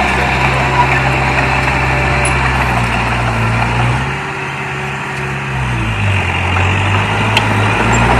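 Heavy diesel engine running steadily under work. About four seconds in its sound drops, and from about six seconds it settles at a lower pitch.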